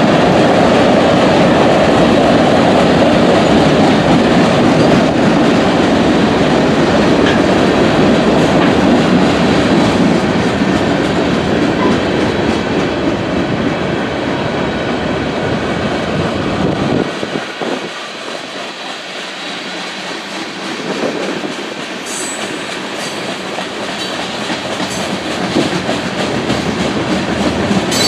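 Norfolk Southern freight train rolling past, a steady rumble of wheels and cars on the rails. About two-thirds of the way through, the deep rumble drops away suddenly and the sound thins, then slowly builds again.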